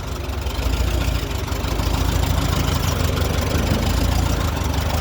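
Vintage tractor engine, hand-crank started, running steadily at low revs and growing a little louder over the first two seconds.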